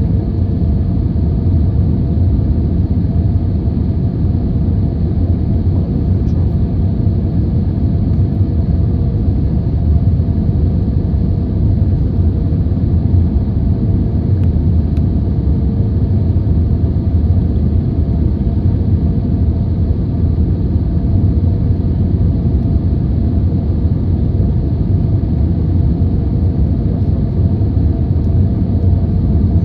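Boeing 737-800 jet noise: a steady, loud low rumble with a constant hum above it, unchanging throughout, like a cabin's sound while the aircraft rolls or taxis with its engines running.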